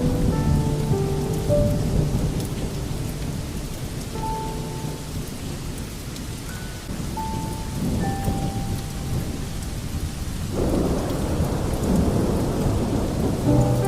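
Rain with low, rolling thunder. Short, soft held tones drift over it, and the rain noise swells suddenly about ten and a half seconds in.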